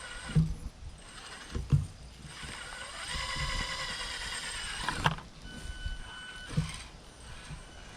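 Electric motors and gear trains of small RC rock crawlers whining as they climb over the course, with a few knocks as the trucks bump and drop over the obstacles. A steadier whine runs from about two and a half seconds in to about five seconds, ending on a sharp knock.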